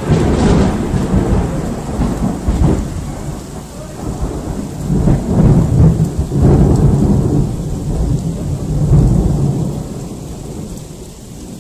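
Thunder rolling on in a long low rumble that swells twice midway and dies away near the end, over steady rain.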